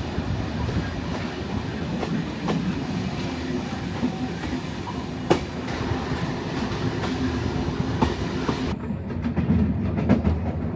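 Passenger train in motion: a steady rumble and rattle of the carriage, with irregular sharp clicks of the wheels over rail joints. Near the end the sound turns duller.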